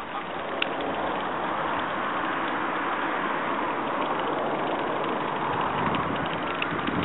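Steady rumble of a passing motor vehicle, swelling about a second in and holding.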